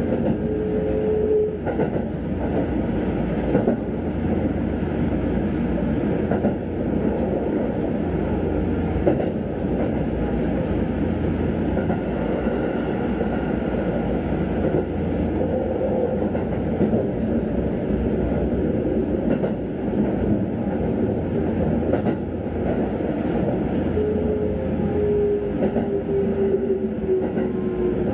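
Sanyo Electric Railway commuter train running, heard from inside the car: a steady rumble of wheels on rail with a few scattered clicks. A motor whine sinks slowly in pitch in the last few seconds.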